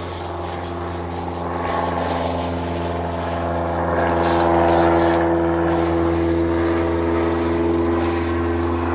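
Steady machine hum from a running motor, made of several unchanging tones over a strong low drone, growing a little louder about halfway through.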